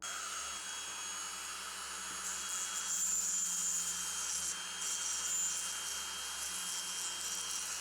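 Small high-speed rotary tool running steadily, cutting in suddenly at the start, with a steady high whine and a hiss that grows louder for a while in the middle as it works the metal.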